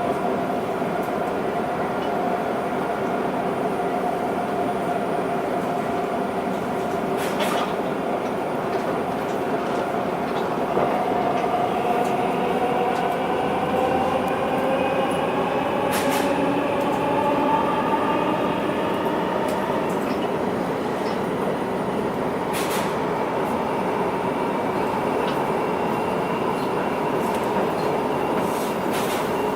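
Linimo maglev car in motion, heard from inside. The linear induction motor's inverter gives off several whining tones that slowly rise in pitch as the car gathers speed, then level off, with no wheel or tyre noise under them. A few sharp mechanical clicks sound now and then.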